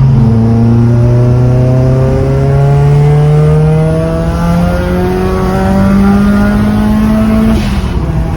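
Mitsubishi Lancer Evolution IV's turbocharged four-cylinder engine accelerating hard. Its note drops at a gear change at the start, then climbs steadily in pitch for about seven seconds before falling sharply at the next upshift near the end.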